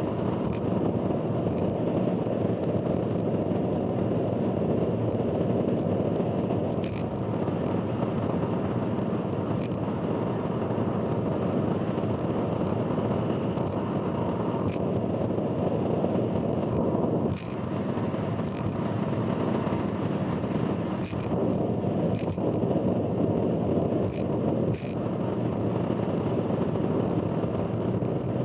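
Steady road and running noise of a car on an expressway, heard from inside, with many short clicks and ticks scattered irregularly through it: the loud abnormal noise the uploader warns about.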